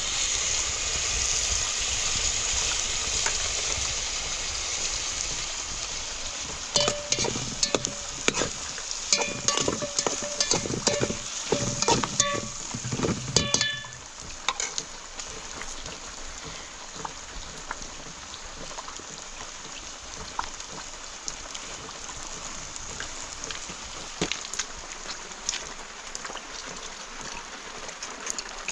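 A steady hiss with a run of sharp, ringing metal clinks and knocks from about seven to fourteen seconds in; after that the hiss goes on more quietly.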